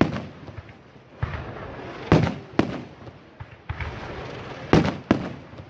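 Aerial fireworks shells bursting: four loud bangs in two pairs, one pair about two seconds in and another near the end, over a steady noise of smaller effects.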